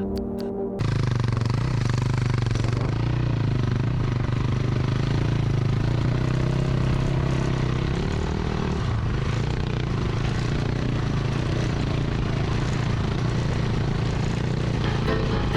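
Dirt bike engine running at a steady pace with a constant rushing noise, starting about a second in after music cuts off.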